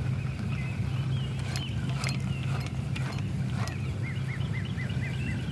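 Birds chirping, ending in a run of six quick, evenly repeated notes, over a steady low rumble. A few sharp clicks or knocks come in the middle.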